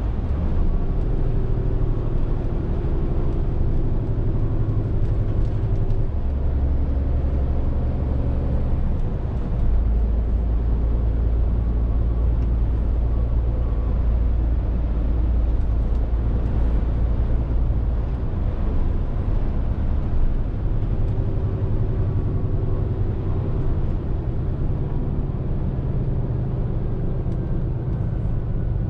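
Scania R450 lorry's 13-litre six-cylinder diesel engine running under way, its note changing pitch and strength several times: about six seconds in, near ten seconds, around eighteen seconds and again near twenty-one seconds.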